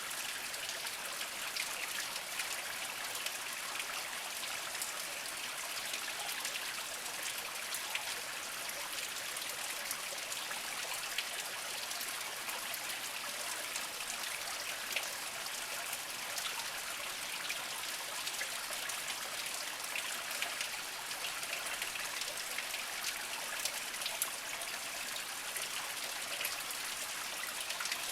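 A small spring trickling and splashing slowly over mossy rocks: a steady, even babble of water with many small droplet splashes.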